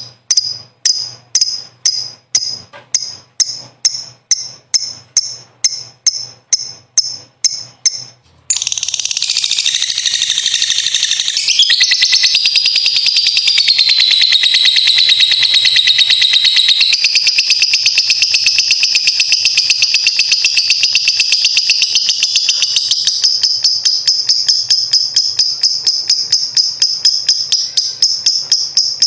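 Lovebird giving sharp, evenly spaced chirps, about two or three a second, then about eight seconds in breaking into a long unbroken rapid chatter, the ngekek panjang. The chatter drops in pitch for a few seconds and then rises again.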